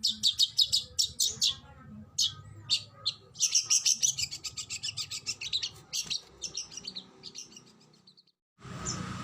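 Oriental magpie-robin (kacer) singing its rapid-fire song: strings of sharp, high chirps, then a fast, dense run of notes a few seconds in that thins out toward the end. Near the end the song breaks off, and a steady hiss comes in under more chirps.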